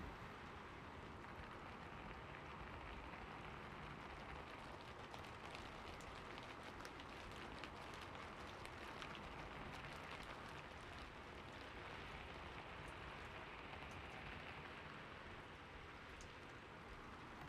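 Steady rainfall, a soft even hiss of rain with scattered individual drop ticks.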